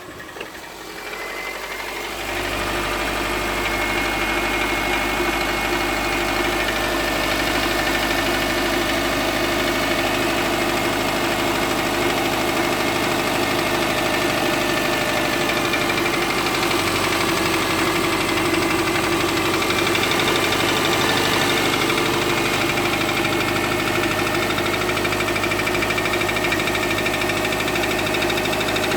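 Subaru Forester's naturally aspirated flat-four engine running at a steady idle, with a knock that the owner suspects comes from the fourth cylinder. It grows louder over the first two seconds, then holds steady.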